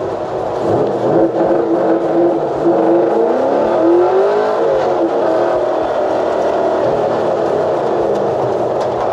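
LS7 V8 in a 1968 GMC truck running on the track. The engine's pitch climbs over the first few seconds, drops about halfway through, then holds a steady drone.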